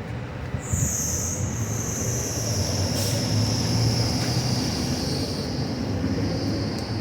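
A passing vehicle: a low rumble with a loud high-pitched whine that sets in about a second in and slides slowly down in pitch.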